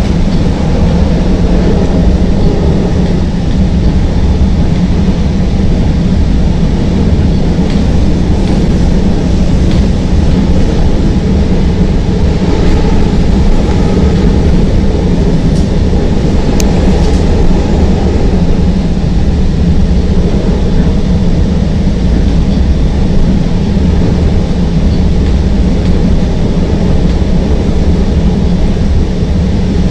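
CTA Green Line rapid-transit train running between stations, heard from inside the car: a loud, steady low rumble, with a few faint clicks about halfway through.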